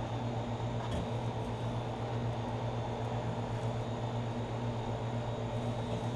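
A steady, even machine hum, such as a fan or motor running, with a faint click about a second in.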